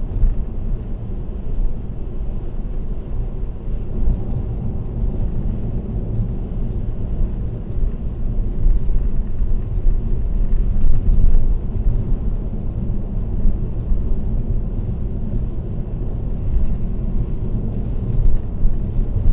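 Steady road and tyre noise from a car cruising on an expressway, picked up by a dashcam: a low rumble with faint light rattles scattered through it.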